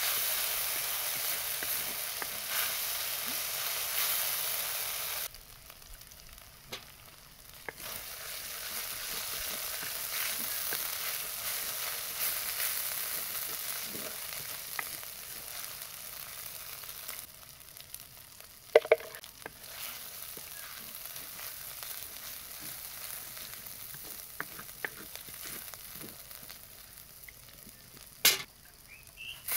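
Oil sizzling in a clay kadai as food fries, stirred with a wooden spoon. The sizzle drops away sharply about five seconds in, comes back, then weakens past the middle. Two sharp knocks come close together just past the middle and another near the end.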